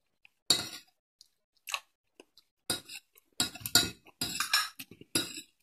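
A person chewing food close to the microphone, mixed with a spoon and fork clinking and scraping against a bowl. The sounds come in short, irregular bursts with brief silences between them.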